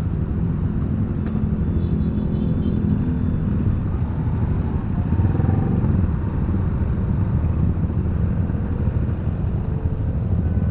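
Motorcycle engine running at low speed amid the steady rumble of surrounding motorbikes and cars in a congested road jam.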